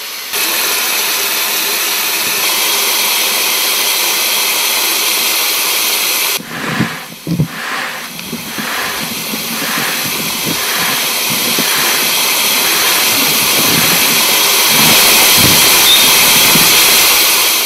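A loud, steady hiss. About six seconds in it changes, with a few low knocks and a slow, even pulsing, and it cuts off suddenly at the end.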